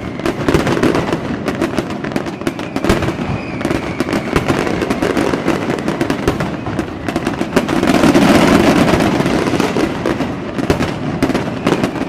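Fireworks going off in a dense, continuous barrage of bangs and crackling, swelling loudest late on, with a faint falling whistle about three seconds in.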